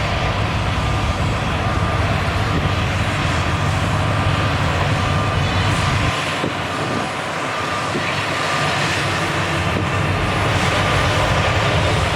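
Heavy diesel earthmoving machinery running steadily with a deep engine rumble. The rumble eases for a couple of seconds about halfway through, with a few faint knocks.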